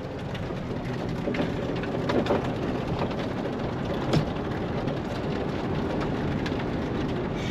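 Steady rush of rain with scattered ticks of drops, over the low rumble of a vehicle driving.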